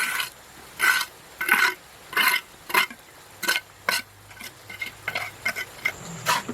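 Repeated scraping strokes, roughly one every two-thirds of a second, with lighter, quicker scrapes near the end.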